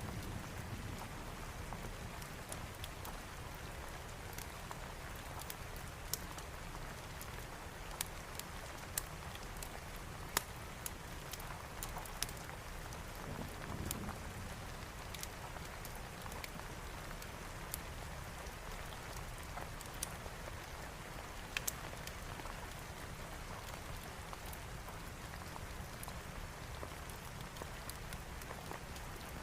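Steady rain falling, with scattered sharp pops and crackles of a wood fire in a fireplace; a brief low rumble about halfway through.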